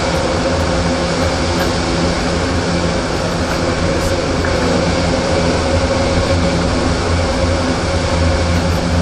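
Steady mechanical drone of a running vehicle or machine, even in level with a few held tones, cutting off abruptly at the end.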